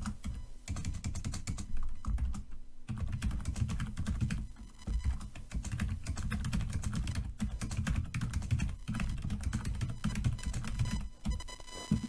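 Computer keyboard being typed on quickly and continuously, a dense run of keystrokes with a few brief pauses.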